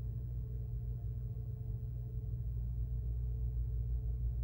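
A steady low hum with a faint, constant higher tone held above it.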